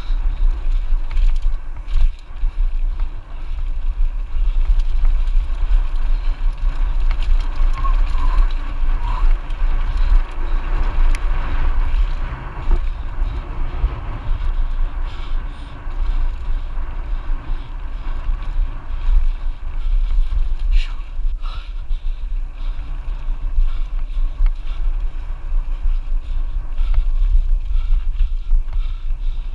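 Wind buffeting the microphone in a heavy, steady rumble during a downhill run on a Lapierre Zesty AM 427 mountain bike, with tyre noise on the trail and scattered knocks and rattles from the bike over bumps.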